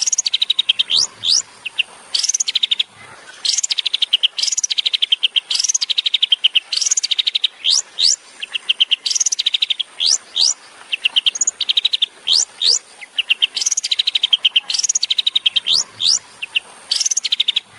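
Long-tailed shrike (cendet) singing: sharp upslurred whistles and fast rattling trills that drop in pitch, repeated phrase after phrase about once a second.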